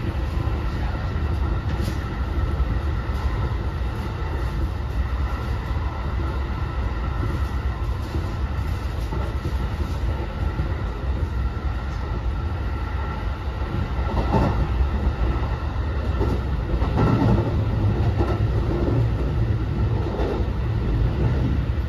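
Interior running noise of a JR West 207 series commuter train, heard inside an unpowered trailer car: a steady rumble of wheels on rail. It grows somewhat louder and rougher for a few seconds past the middle.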